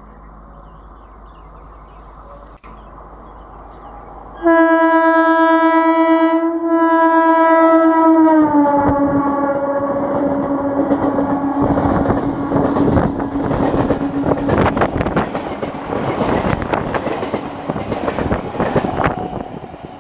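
Electric multiple-unit local train sounding a long horn as it approaches fast; about four seconds in the horn's pitch drops as the train passes, and the horn fades while the wheels clatter over the rail joints as the coaches rush by.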